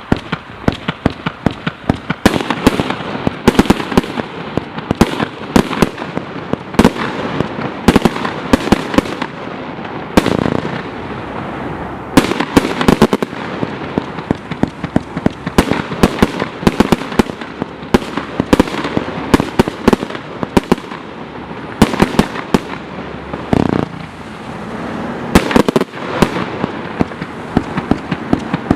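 Vivid Pyrotechnics Zeigelstein firework going off, starting suddenly and firing a rapid, unbroken stream of sharp bangs and cracks over a continuous crackle.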